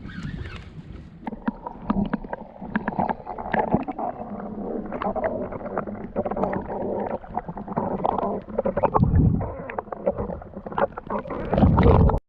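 Handling noise on a kayak while a hooked fish is being reeled in: the reel turning, with many irregular knocks and clicks of gear against the hull. Two heavy low rumbling surges come about nine seconds in and again near the end.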